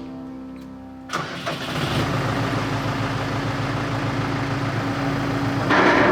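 An 84-horsepower Massey Ferguson tractor's diesel engine cranks and starts about a second in, then runs steadily. It gets louder near the end.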